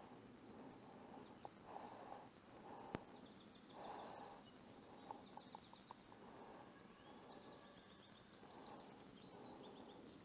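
Near-quiet outdoor ambience with faint birds chirping and trilling in short rapid series, and one sharp click about three seconds in.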